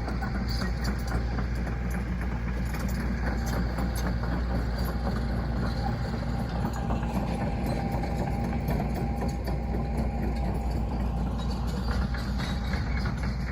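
Heavy farm machinery running steadily: a deep, constant engine drone with light rattling clicks over it.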